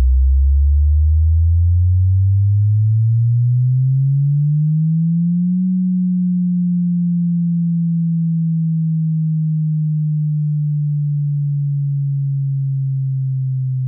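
Subwoofer test tone: a deep sine-wave tone sweeping steadily upward in pitch for about five seconds, then gliding slowly back down.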